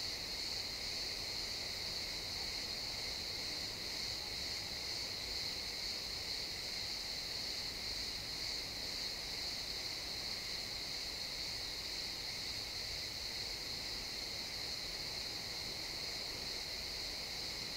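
A chorus of crickets chirping steadily in a pine forest, a continuous high-pitched trill over faint background hiss.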